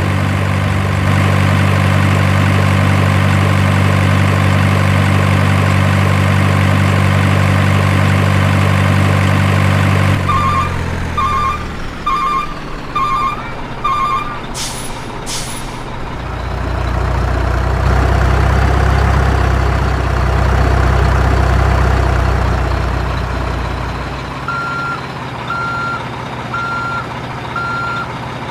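Heavy truck sounds: a diesel engine idling steadily, then a reversing beeper sounding about five times, two short air-brake hisses, a low engine rumble, and near the end the reversing beeper again, about once a second.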